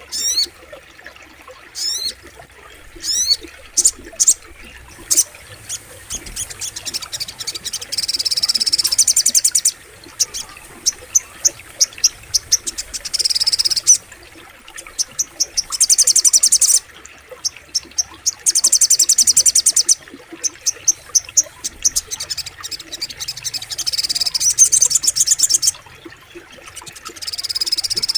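Sogok ontong, a small songbird, singing loud, high-pitched rapid trills and fast chip series in bursts of a second or two, repeated every few seconds, with a few quick sweeping notes early on. A faint steady wash of flowing water sits underneath.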